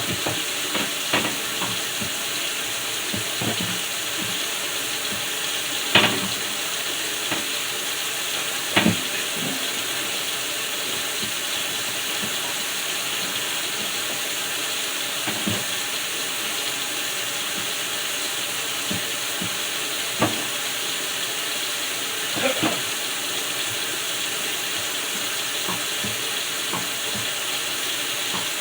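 A steady hiss throughout, with a few scattered knocks and clunks from wiping and handling things inside a refrigerator.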